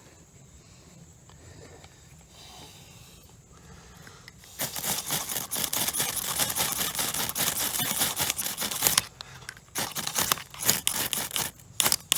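Quiet at first, then about four seconds in a burst of dense, rapid scraping and crackling lasting several seconds, with more after a short pause, as damp tinder is worked to light a campfire.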